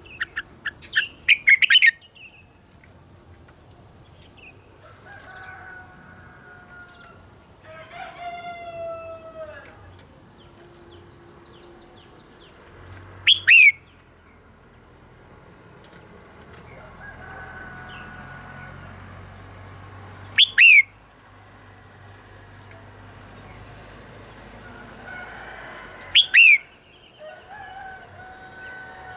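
Red-whiskered bulbul singing: soft whistled warbling phrases broken about four times by loud, sharp, steeply falling high notes.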